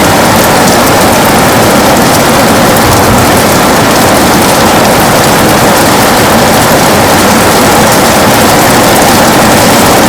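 Heavy rain falling on a window: a dense, steady hiss of many drops.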